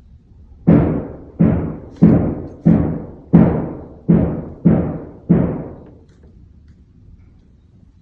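Construction hammering carried through the building: eight heavy, evenly spaced blows, about one and a half per second, each dying away briefly before the next.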